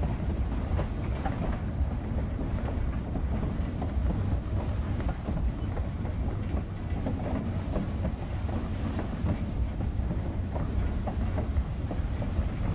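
East Broad Top narrow-gauge steam train running, heard from the car right behind the locomotive's tender: a steady low rumble of wheels on the rails with many small, irregular clicks and clanks.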